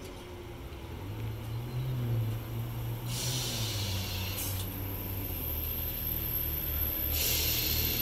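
Electric multiple unit passing close at speed: a low rumble of wheels and traction equipment that builds up, a steady high whine, and two bursts of rushing hiss as the carriages go by.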